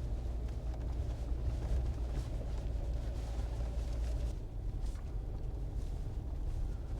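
Steady low drone of a Jeep's engine and tyres heard from inside the cabin while driving on a snowy road; the deepest part of the drone drops a step about four seconds in.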